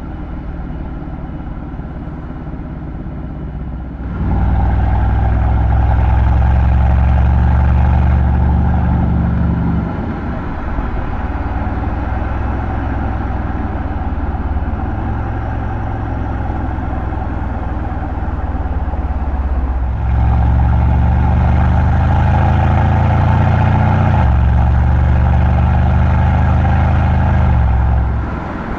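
Mercedes-AMG C63's M177 twin-turbo V8 running while the car is driven, its exhaust getting louder as the throttle opens about four seconds in, easing off, then pulling hard again and dropping in pitch at a gear change before backing off near the end.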